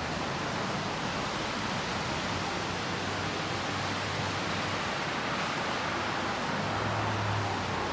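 Steady hiss of falling rain, with a faint low hum underneath.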